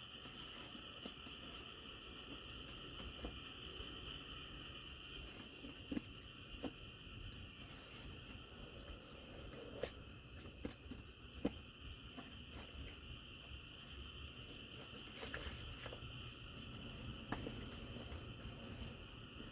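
A steady high insect chorus of crickets or cicadas, with a few scattered light knocks.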